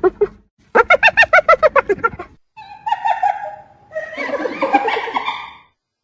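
Spotted hyena giggling: a rapid run of high, rising-and-falling yelps, about eight a second, then shriller squeals and whines that stop abruptly about a second before the end.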